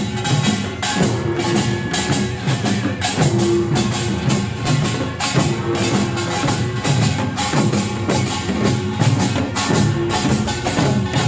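Korean pungmul percussion band playing a fast, dense rhythm: kkwaenggwari small gongs clanging over janggu hourglass drums and buk barrel drums, with the jing gong.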